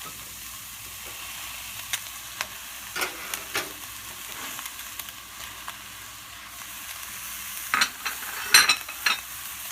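Ground chicken and vegetables frying in a skillet with a steady sizzle, while a utensil stirs and scrapes against the pan in short clicks now and then, loudest near the end.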